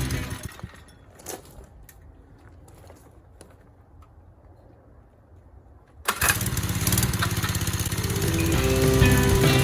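A mini bike's small single-cylinder engine dies away at the start, a few faint clicks follow, and about six seconds in it suddenly starts and keeps running.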